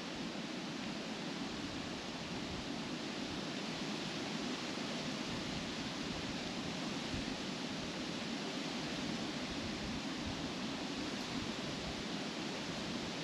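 Wind blowing steadily through trees, the leaves rustling in a constant hiss.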